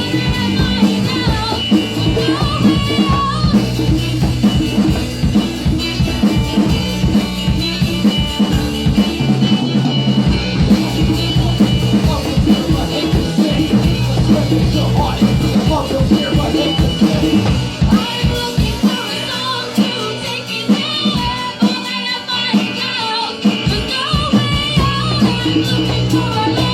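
Live rock band playing an instrumental passage on drum kit and guitar, with a wavering melodic lead line over it. The low end drops out for a few seconds past the middle, then comes back.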